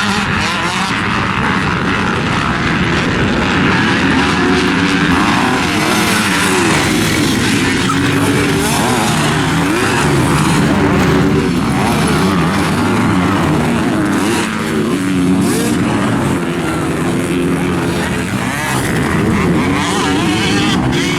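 Motocross dirt bike engines racing, revving hard and easing off again and again, the pitch rising and falling with each throttle change.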